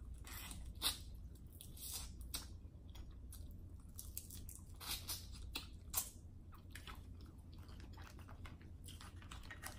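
Close-miked chewing of buttery crab meat: irregular wet mouth smacks and small clicks.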